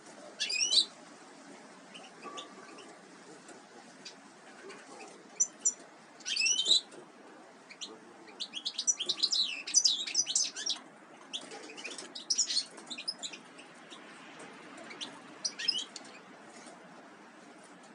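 Small songbirds chirping: scattered short, high sweeping calls, with a fast run of chattering calls in the middle.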